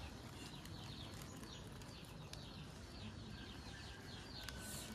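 Birds chirping: many short, high, falling chirps in quick runs, over a low steady background noise.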